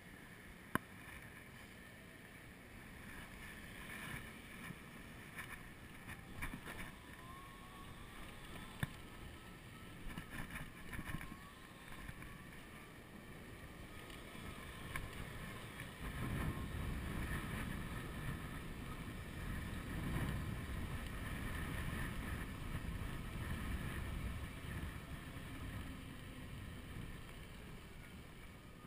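Wind buffeting the microphone of a chest-mounted GoPro while riding an e-bike, growing louder about halfway through. A faint whine from the Golden Motors 48 V 1000 W rear hub motor rises in pitch in the first half.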